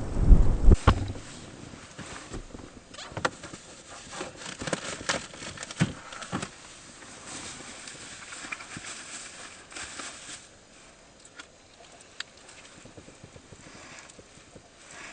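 Scattered light clicks and knocks of small objects being handled, thinning out after about ten seconds. At the very start a low rumble cuts off about a second in.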